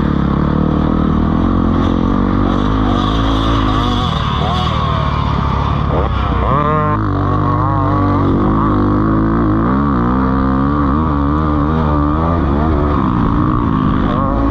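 Several motocross bikes racing, their engines revving up and down over one another, with one revving hard about six seconds in.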